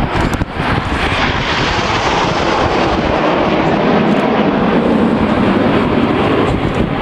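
Red Arrows' BAE Hawk T1 jets passing overhead: loud, steady jet-engine noise that swells about a second in and then holds.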